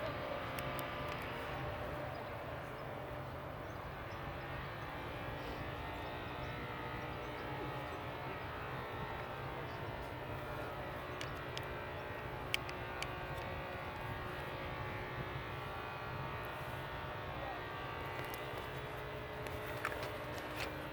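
Steady distant engine drone with a low hum, a few faint ticks about midway.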